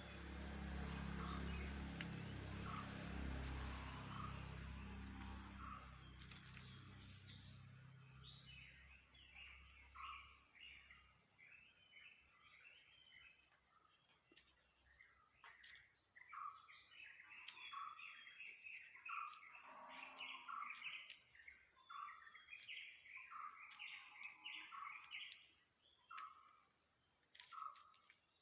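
Birds chirping: many short, repeated calls over a faint steady high-pitched whine. A low rumble fades out over the first ten seconds or so.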